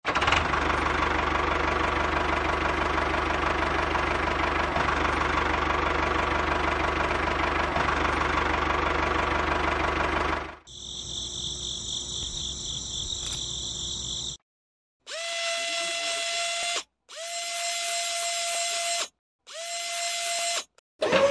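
An engine running steadily for about ten seconds, then a thinner, higher machine whine for a few seconds, followed by three separate steady tones of about two seconds each, with short silent gaps between them.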